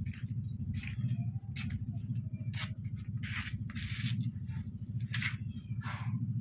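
Repeated short scraping and rubbing strokes of hands working on electric stand fan parts, over a steady low hum.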